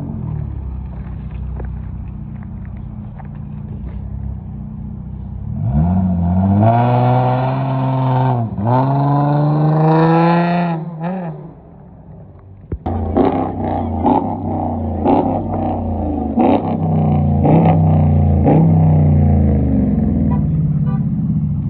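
Car engine idling, then revved hard twice in a row, the pitch climbing and falling each time. After a brief lull an engine runs again with a string of sharp pops over it.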